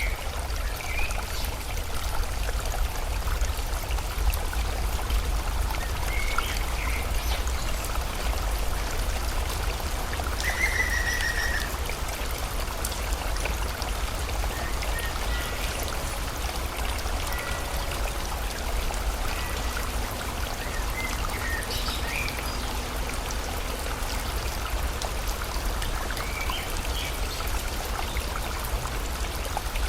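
Steady flowing water of a stream or river, with scattered short bird chirps over it, including a brief trill about ten seconds in.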